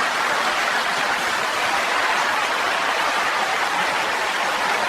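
A steady, even hiss of noise that cuts off suddenly at the end.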